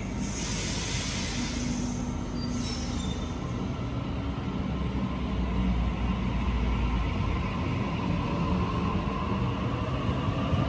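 Electric passenger train running at a station with a steady rumble, a hiss in the first two seconds, and a motor whine rising in pitch over the last few seconds as the train picks up speed.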